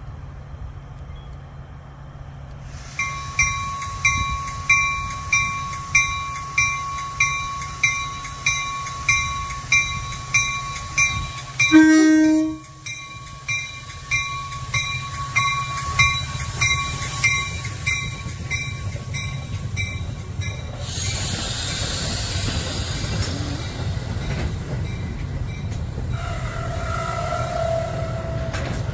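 A train running with a bell ringing steadily, about one and a half strokes a second, and a short, loud horn blast about twelve seconds in. The bell stops about 21 seconds in while the train's rumble goes on.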